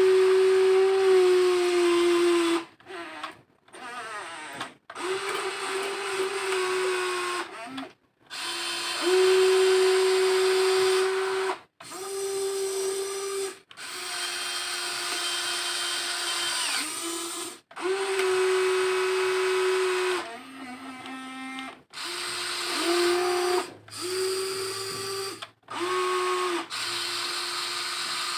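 WLtoys XK 16800 RC excavator's electric motors whining in repeated runs of one to three seconds, starting and stopping as it is operated. One run near the middle is lower in pitch.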